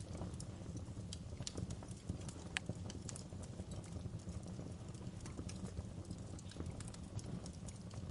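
Fireplace fire crackling: irregular sharp pops and snaps over a low steady rumble, with one louder pop about two and a half seconds in.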